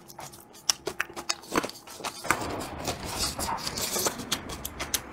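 A person chewing braised meat close to the microphone: sharp, wet mouth clicks and smacks, with a denser, noisier stretch from a little over two seconds in until near the end.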